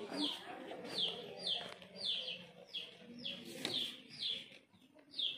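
A bird chirping over and over, short high chirps that each drop in pitch, about two to three a second.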